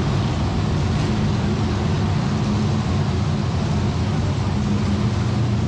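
Monster truck engine running loud and steady, with a deep, even drone and no revving.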